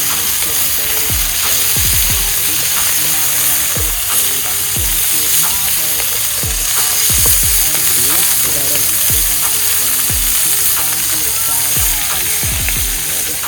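Diced beef steak sizzling hard in a hot pan, a steady hiss. A hip-hop beat with deep bass-drum hits plays along with it.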